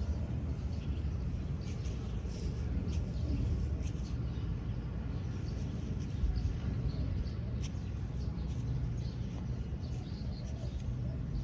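Wind on the microphone as a steady low rumble, with faint, short bird chirps scattered through it.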